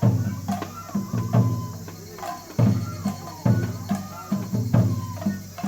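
Japanese festival music for a lion dance: taiko drums beating a steady pattern, often with doubled strokes, under a high bamboo flute playing long held notes.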